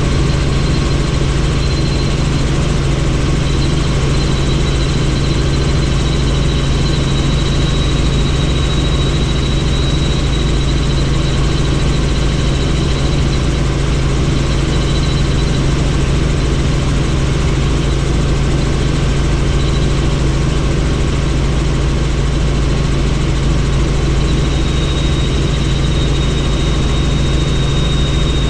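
Helicopter in steady flight, heard from inside the doors-off cabin: a constant low rotor and engine drone, with a thin high turbine whine that fades out and back in.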